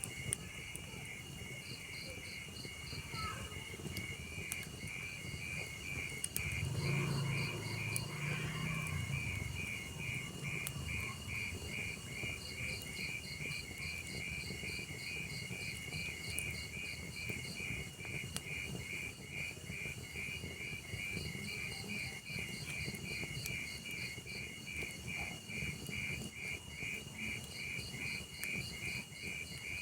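Crickets chirping in a steady, rapid, evenly spaced rhythm over a log fire's crackle, with scattered faint pops and a brief low rumble about a quarter of the way in.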